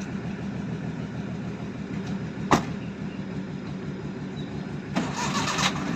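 Engine running steadily at low revs with an even low throb, with one sharp knock about two and a half seconds in.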